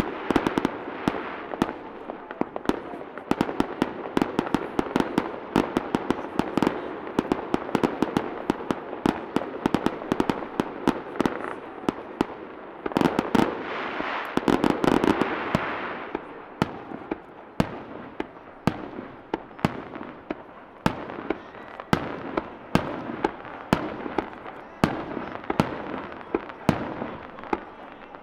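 Fireworks display: a non-stop barrage of aerial shells bursting in quick succession, dozens of sharp bangs and crackles over a continuous rumble, growing denser and louder about halfway through.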